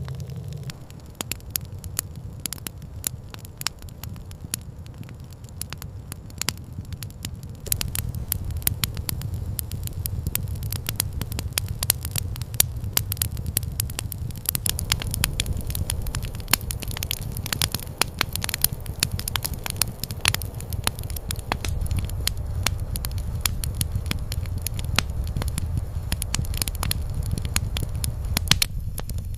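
Campfire crackling: irregular sharp pops and snaps over a steady low rumble, growing busier and louder about eight seconds in.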